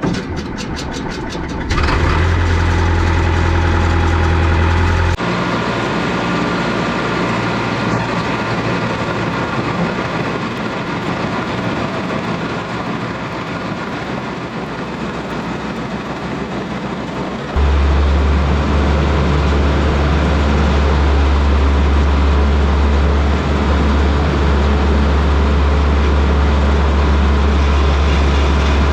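Cat D3 bulldozer's diesel engine starting, with a brief run of rapid pulses as it catches, then running steadily. Its sound changes abruptly about five seconds in, and again past halfway, where a strong low drone sets in.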